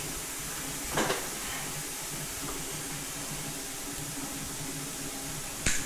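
Steady background hiss with a faint low hum, broken by two short clicks or knocks, about a second in and again near the end, as parts are handled.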